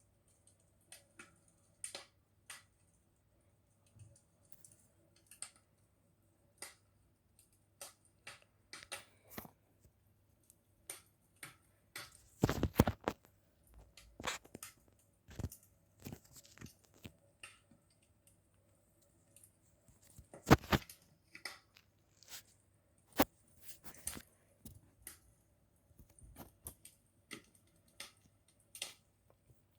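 Campfire crackling: irregular sharp pops and snaps from burning wood, with a few louder pops about twelve and twenty-one seconds in.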